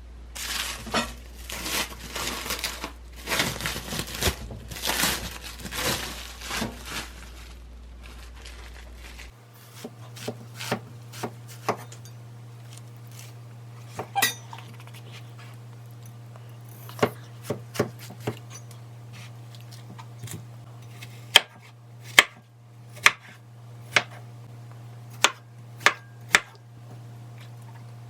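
Kitchen clatter of dishes and utensils, dense for the first several seconds. It then gives way to separate sharp clinks and knocks, a few of them loud near the end, over a steady low hum.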